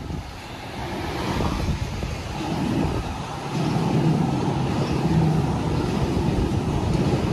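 A train approaching through the station, its rumble and running noise growing steadily louder over the first few seconds and then holding loud, with a low hum joining in about halfway.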